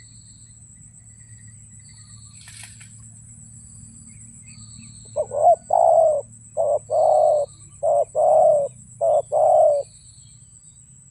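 Spotted dove (terkukur) cooing: a phrase of about six low, hollow coos beginning about five seconds in, the middle notes longest.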